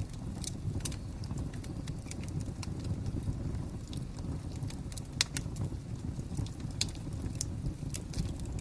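Wood fire crackling: a steady low rumble of flames with irregular sharp pops and snaps, one louder pop about five seconds in.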